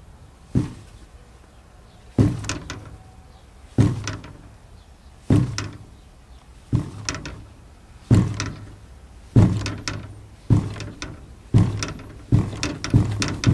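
Washing machine knocking: a thud with a short rattle about every one and a half seconds, the knocks coming faster toward the end.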